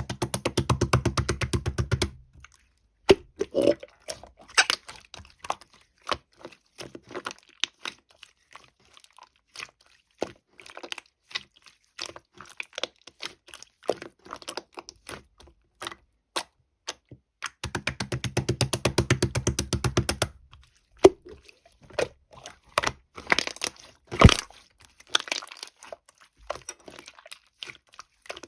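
Close, crisp clicks and crunching sounds, with two runs of rapid, evenly spaced clicking about two and a half seconds long and a sharp crack a little after the second run.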